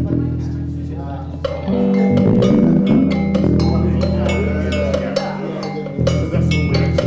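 Band music: held low bass notes that change every second or two, with percussion strikes and other instruments over them.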